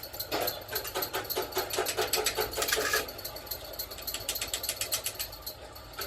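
Rapid mechanical clicking in a quick even run, loudest for the first three seconds and then lighter and sparser.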